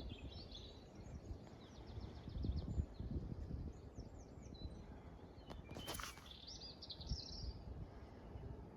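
Small songbirds chirping and trilling over a low rumbling background, with one short sharp click about six seconds in.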